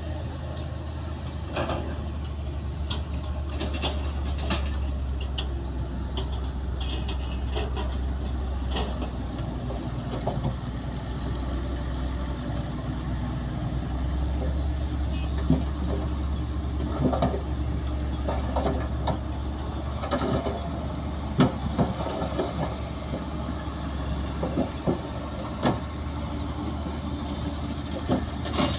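Komatsu D60P bulldozer's diesel engine running steadily under a low drone, with scattered metallic clanks and knocks from the working machine, more frequent in the second half.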